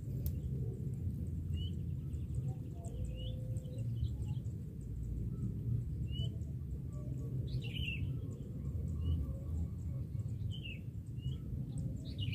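Birds giving short chirps every second or so, over a steady low rumble.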